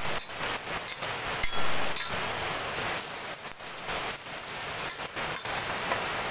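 Fermented ensabi leaves sizzling as they stir-fry in hot oil, with frequent sharp clicks and scrapes of the spatula against the pan.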